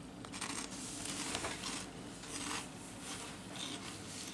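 Corn snack sticks being chewed: soft, irregular crunching, several bites' worth in a few seconds.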